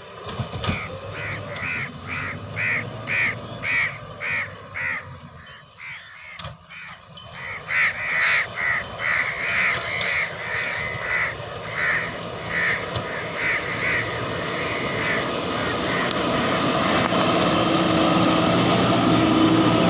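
A bird calling over and over in short harsh calls, about two to three a second, pausing briefly a third of the way in. A steady machine noise builds underneath toward the end.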